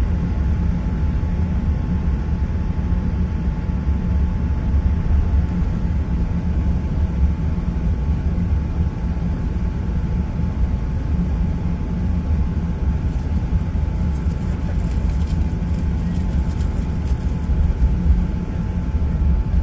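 Steady low rumble of an Airbus A380's cabin from a window seat, with engine and airframe noise running evenly. A few light rattles come in near the end.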